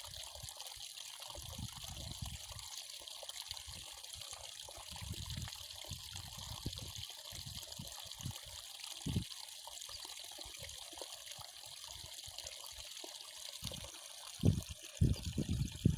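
Water trickling steadily, with occasional low thumps that grow more frequent near the end.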